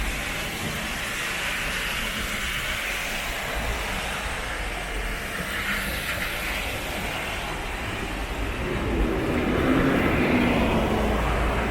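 City road traffic on a rain-wet street: a steady hiss and rumble of vehicles, with one vehicle's engine passing louder about nine seconds in.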